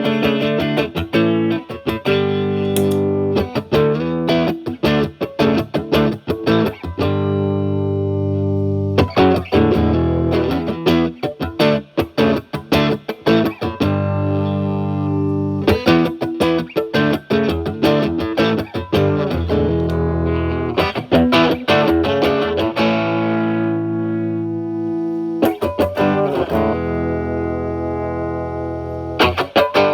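Electric guitar, a Stratocaster with three single-coil alnico pickups, played through a Paul Cochrane Timmy transparent overdrive with its gain at twelve o'clock into the clean channel of a Marshall Valvestate amp. It gives a lightly overdriven tone as picked chords and single-note lines are played, with some notes left ringing.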